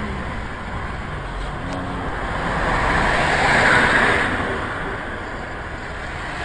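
Road traffic noise: a passing vehicle's rushing sound swells to a peak about three to four seconds in, then fades.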